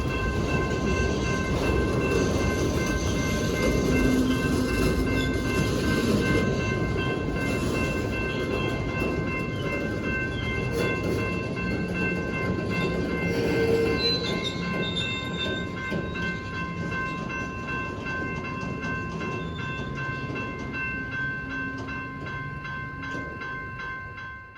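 Train rolling past with a steady low rumble of wheels on rail, under several steady high ringing tones. The sound slowly eases and then cuts off suddenly at the end.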